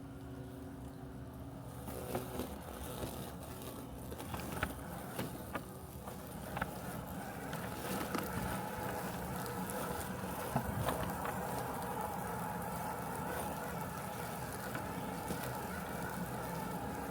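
Robotic lawn mower running with a steady mechanical hum, growing louder about two seconds in and again around eight seconds. Scattered sharp clicks sound over the hum.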